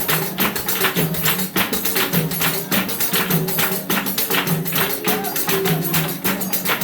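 Samba de roda chula music: a pandeiro and other hand percussion beating a fast, steady rhythm, with pitched notes from a string instrument or voices underneath.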